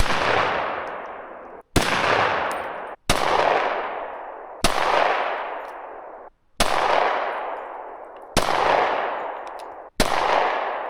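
Seven gunshots fired one after another, about one every one and a half seconds, each followed by a long echo that slowly dies away.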